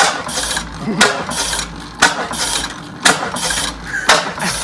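1908 15-horsepower Otto gas engine running slowly: a sharp stroke about once a second, each followed by a short burst of hiss.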